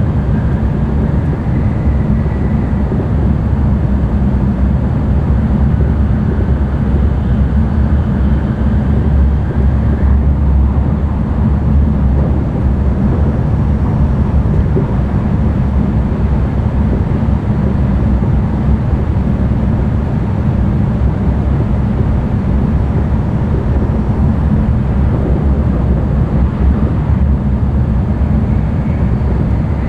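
Steady low rumble and rushing of an N700-series Shinkansen running on the line, heard from inside the passenger cabin.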